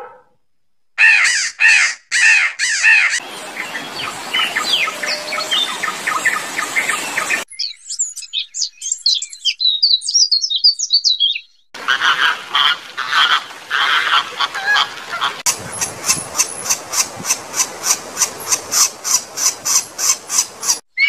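Birds calling and chirping in several short bursts, with a stretch of high, quick chirps partway through. Near the end comes a steady run of repeated calls, about three a second, from a pileated woodpecker at its nest hole.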